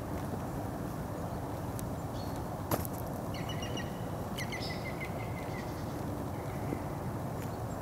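Steady low outdoor background rumble, with a bird giving a quick run of short chirps about three to five seconds in. A single sharp click comes just before the chirps.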